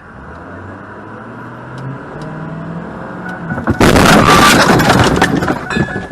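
Car engine and road noise, the engine rising in pitch as it speeds up, then about four seconds in a sudden, very loud car crash that lasts about two seconds before fading.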